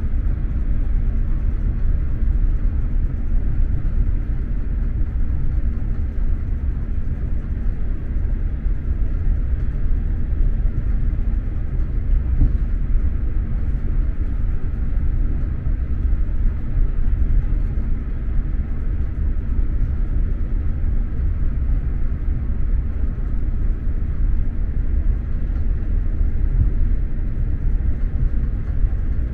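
SJ X2000 high-speed train running at speed, heard from inside a passenger car: a steady, low rumble of the wheels on the track that does not change.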